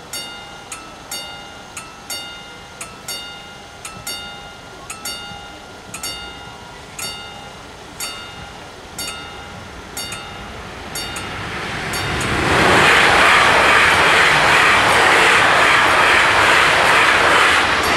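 Level-crossing warning bells dinging about twice a second. From about eleven seconds in, the rising rush of an approaching Bombardier Talent 2 electric multiple unit, which then runs loudly and steadily over the crossing, drowning out the bells.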